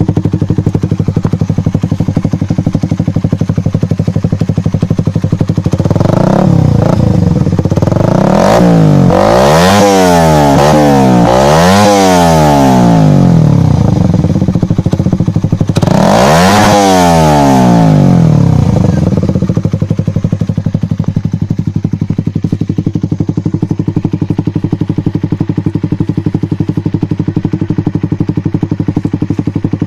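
Suzuki Satria FU 150 single-cylinder engine idling through a Nobi Titan aftermarket exhaust with its DB killer removed. Revved in a run of quick blips about a fifth of the way in, rising and falling, then once more near the middle, before settling back to idle.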